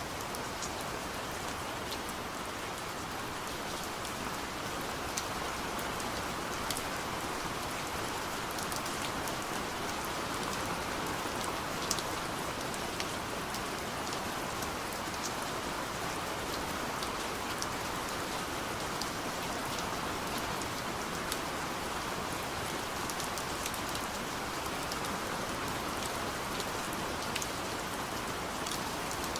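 Steady gentle rain falling against a window, an even hiss with many small scattered drop ticks.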